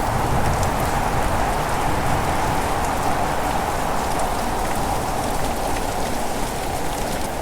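Steady heavy rain falling, an even dense hiss with individual drops ticking through it.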